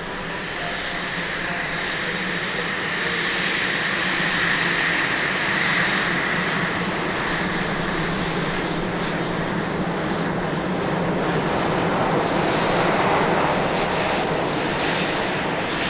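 Northrop F-5B Tiger's twin General Electric J85 turbojets running steadily, a loud jet rush with a high whistling whine held at one pitch, swelling slightly and easing off twice.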